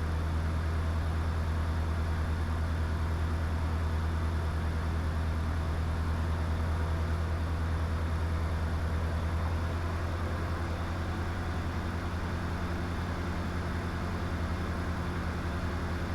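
Diamond DA20 light aircraft's piston engine and propeller running at a steady, low power setting, heard inside the cockpit as a constant drone. The drone eases slightly about two thirds of the way through.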